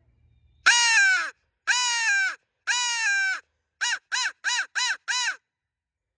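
Hand-blown crow call used as a turkey locator: three long, drawn-out caws falling in pitch, then a fast run of five short caws.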